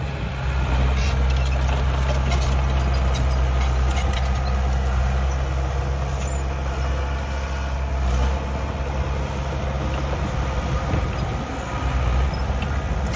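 Diesel engine of a small crawler bulldozer working, a steady low drone with scattered metallic clanks and squeaks from its tracks; the engine note changes about eight seconds in.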